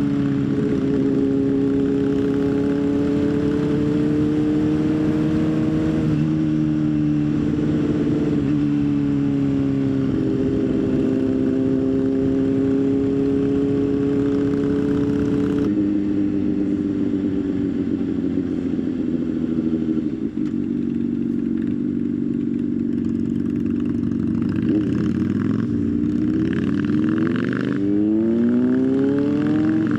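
Motorcycle engine running under way, its note holding steady for stretches and shifting in pitch a few times, then rising steeply near the end as it accelerates.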